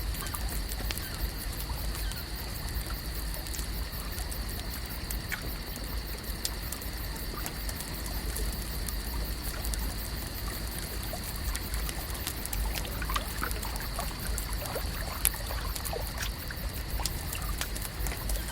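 Lake ambience: water trickling and lapping over a low rumble, with a steady high-pitched hum and scattered small clicks and ticks throughout.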